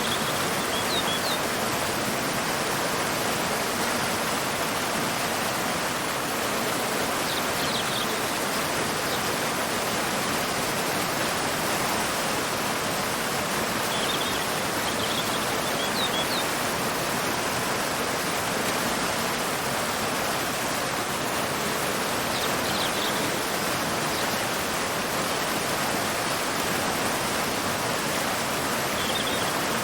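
Waterfall pouring into a river, a steady rushing of water. Short bird chirps come through it about every seven to eight seconds.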